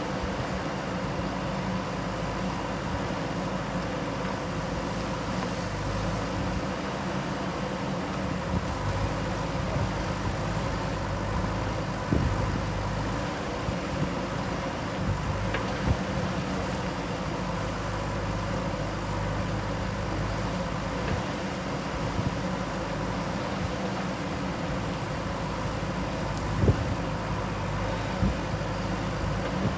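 JCB 3DX backhoe loader's diesel engine running steadily at work, with a few brief sharp knocks standing out above it.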